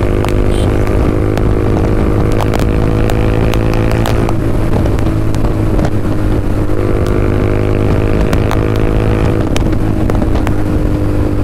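TVS Apache RR 310's single-cylinder engine running loud through an SC Project aftermarket exhaust at a steady pace. Its pitch dips and recovers twice, about four seconds in and again near the end.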